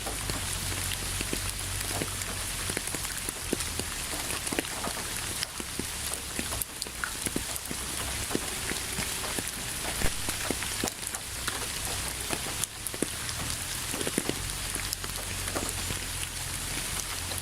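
Steady rain falling on a surface, a continuous hiss with many individual drops ticking through it and a low rumble underneath.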